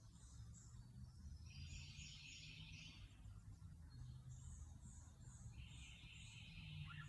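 Faint birdsong: runs of short, very high chirps and two longer buzzy trills, over a low steady background rumble.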